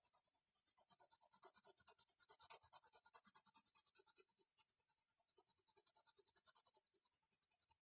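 Faint, rapid back-and-forth scratching of a drawing tool on paper, as in shading or colouring in, with many even strokes a second. It stops shortly before the end.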